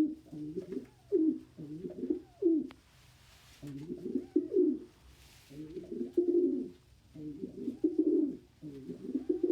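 Domestic pigeons cooing: a run of low, repeated coo phrases that rise and fall, with short pauses between groups.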